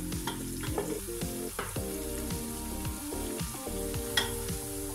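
Ginger-garlic paste sizzling as it fries in hot oil in a nonstick pot, with a wooden spatula stirring and scraping through it.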